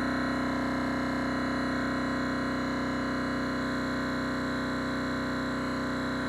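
Thermoacoustic engine running: a steady, unchanging hum with a strong low tone and many higher overtones, easing off very slightly in level.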